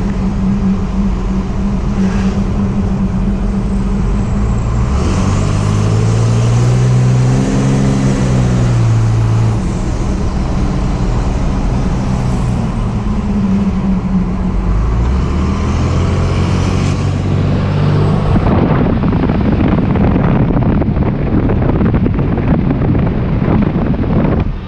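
Cummins diesel engine in a Ford F-250 accelerating hard, its note climbing in pitch on two pulls, with the turbo whistling above the engine.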